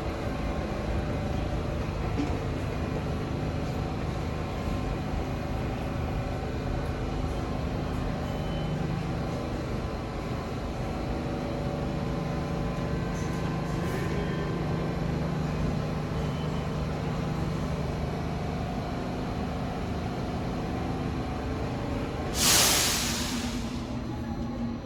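New York City subway train running with a steady rumble and hum. About 22 seconds in there is a loud hiss of air from the brakes, fading over a second or so.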